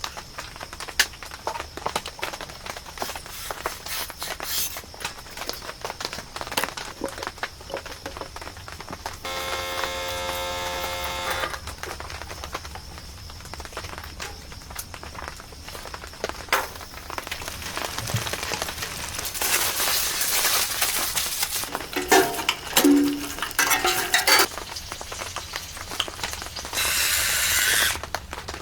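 Camp cooking: food sizzling in a pan, with utensils clinking and scraping against the pot. A brief squeal comes about ten seconds in, and the sizzle swells louder a little past the middle.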